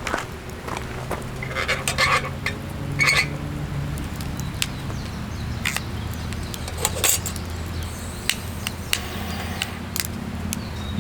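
Scattered light clicks and knocks, like gear or utensils being handled, with a cluster about two to three seconds in, over a low steady hum.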